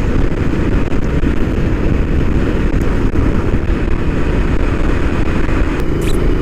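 Motorcycle running steadily at motorway speed: a continuous engine drone mixed with rushing wind.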